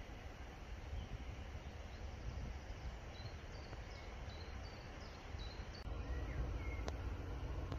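Outdoor ambience: a small bird chirping a quick run of short high notes through the middle, over a steady low rumble.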